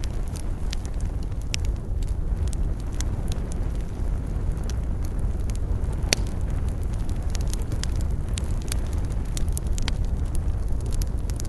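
Wood campfire crackling: irregular sharp pops and snaps, one louder crack about halfway through, over a steady low rumble.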